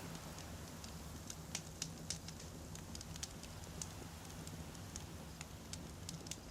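Wood campfire burning, with frequent irregular sharp crackles and pops from the burning logs over a soft low rumble of the flames.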